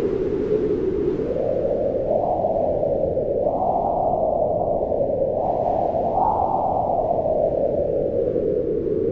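Strong wind howling in a snowstorm, a deep steady rush whose pitch swells upward in slow gusts, highest a little past the middle, then sinks again toward the end.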